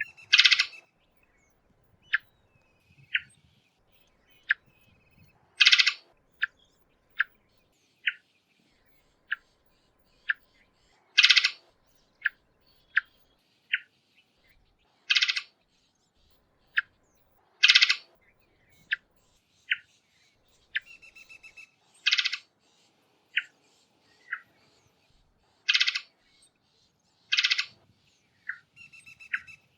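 Varied thrush calling: about eight loud, short, harsh notes a few seconds apart, with many fainter short chirps in between.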